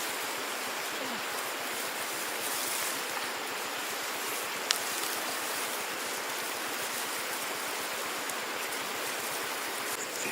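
Steady rush of flowing water, with one sharp click a little under halfway through.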